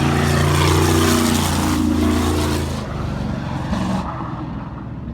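Sprint car's V8 engine running hard on throttle, a loud steady drone that drops away about three seconds in and fades.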